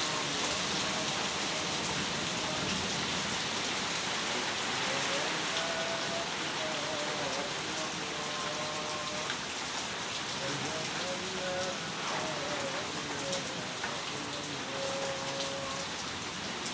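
Heavy rain falling steadily, a continuous even downpour.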